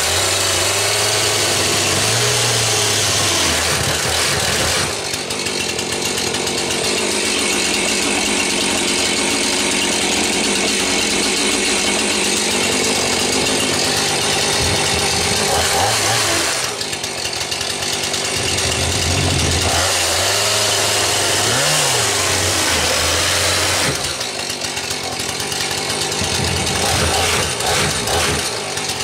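Gasoline chainsaw running and cutting through a wooden desk panel, revving hard under load for a long stretch and again for a few seconds later, easing back between cuts.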